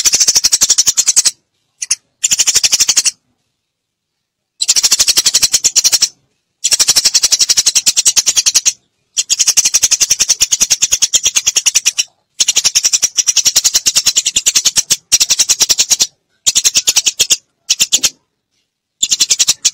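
Eurasian tree sparrows chirping in a fast, dense chatter, played as a lure call for trapping sparrows. The chatter comes in bouts of one to three seconds with abrupt dead-silent gaps between them.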